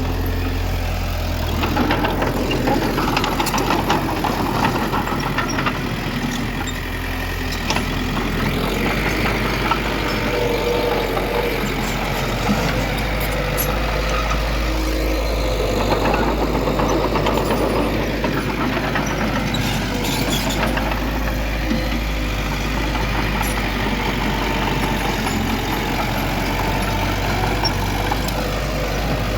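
Diesel engine of heavy earthmoving machinery running steadily, its pitch and load shifting a little, with a few short metallic clanks about two-thirds of the way through.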